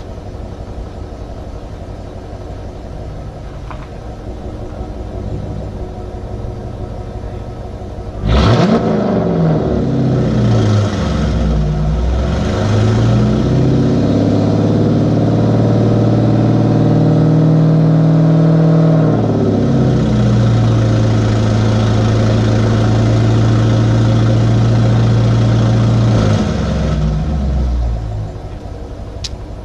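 2014 GMC Sierra Denali's V8 with headers and tune, running steadily, then going to full throttle about eight seconds in: the engine pitch climbs and drops back at each upshift, holds high, then eases off and falls back to a lower steady note near the end.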